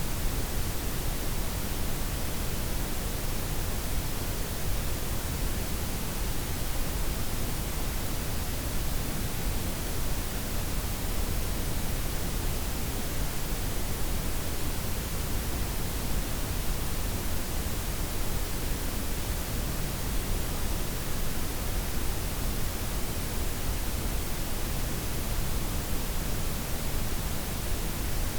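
Steady layered synthetic noise: softened white noise blended with pink and brown noise, an even, unchanging hiss with a full low rumble underneath.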